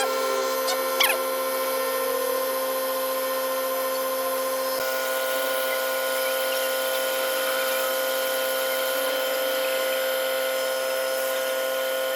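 Bucket truck's engine and hydraulic boom pump running, a steady mechanical whine of several held tones that shifts slightly about five seconds in, with a couple of light clicks near the start.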